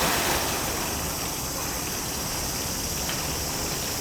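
Steady rushing noise like flowing water, with a steady high hiss above it.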